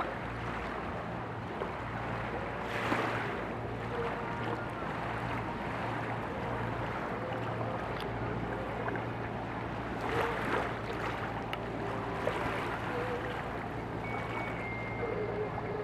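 River motor ship's engines running with a steady low hum under a continuous wash of water and wind noise, which swells briefly about three seconds in and again around ten seconds in.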